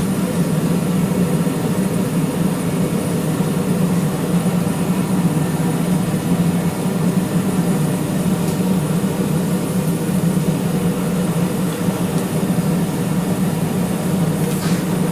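Steady drone of running forge-shop equipment, unchanging throughout, with a low hum at its core.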